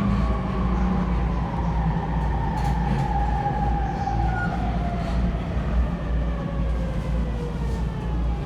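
Interior running sound of a JR East E231 series 1000 (renewed) electric commuter train: a steady low rumble of wheels on rail under the motors' whine, which falls slowly in pitch as the train slows for its next stop.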